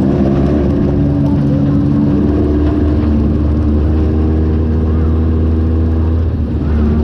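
Off-road buggy engine running steadily under way, with a brief drop in level near the end before it picks up at a slightly different pitch.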